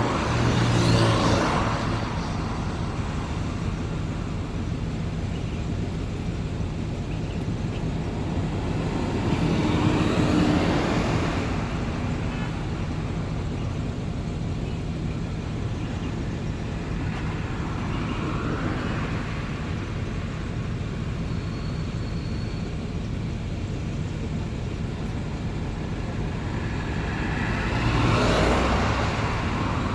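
Road traffic: a steady rush of tyre and engine noise, with cars passing close by about four times, each swelling up and fading away.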